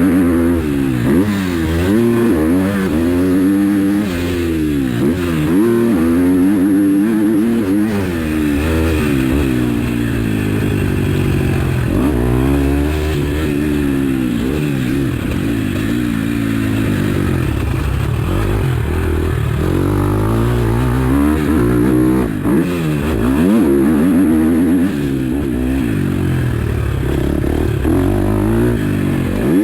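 A KTM SX-F 250 four-stroke single-cylinder motocross engine revving hard and backing off again and again while being ridden. Its pitch climbs and drops every second or two with the throttle and gear changes.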